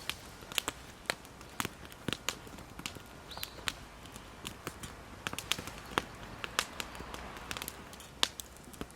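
Wood campfire crackling, with irregular sharp pops and snaps several times a second over a low hiss.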